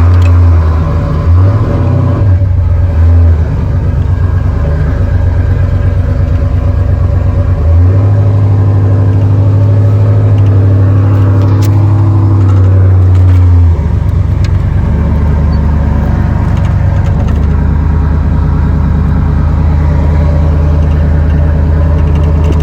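Pickup truck engine run hard at high revs while the truck is spun sideways. The pitch holds for several seconds at a time, steps up about eight seconds in and drops back down near the fourteen-second mark.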